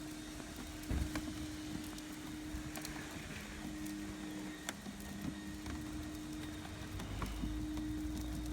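Small electric motor of a ride-on barrow train humming steadily under power, with scattered clicks and rattles. The hum breaks off briefly about halfway through, and a low rumble comes in near the end.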